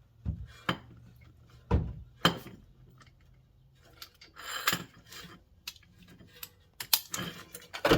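Scattered metallic clinks and knocks of a breaker bar and socket being worked onto a front brake caliper bolt, a dozen or so sharp knocks at uneven gaps.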